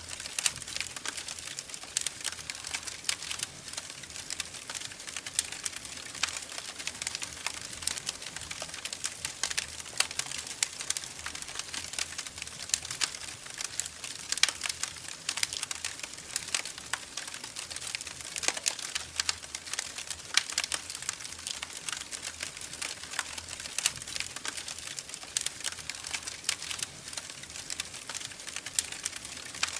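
Wood fire in a fireplace crackling, with frequent irregular snaps and pops over a soft hiss.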